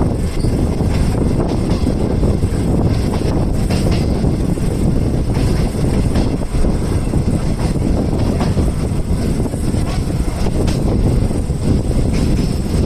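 Passenger train running, a steady loud rumble heard from inside a non-air-conditioned coach, with a few faint clicks over it.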